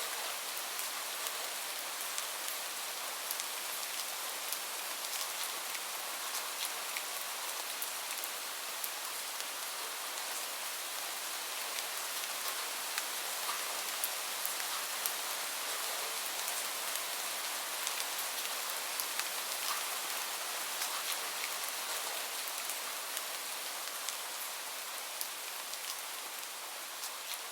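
Steady rain, a dense even hiss with many small drop ticks scattered through it.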